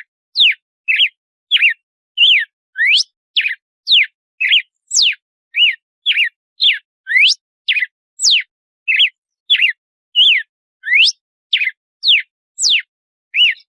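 Red-cowled cardinal singing its 'açoite' song: a long run of separate loud whistled notes, about two a second, each sliding sharply up or down in pitch.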